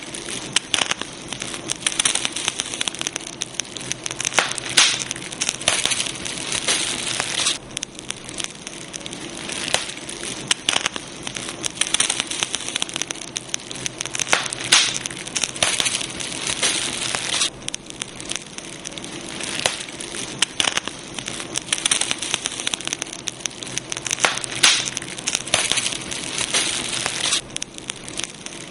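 Wood fire crackling and popping, with many irregular snaps over a steady low hiss.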